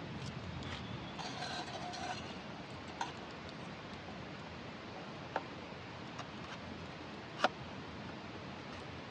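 Wood campfire crackling, with a few separate sharp pops, the loudest near the end, over a steady hiss.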